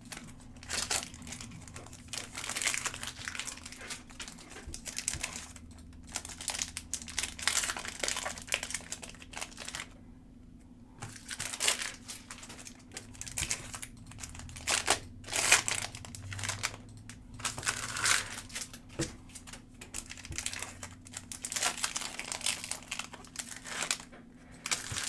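Plastic wrapping on trading-card packs and boxes crinkling in irregular bursts as it is handled and opened, with a brief pause about ten seconds in.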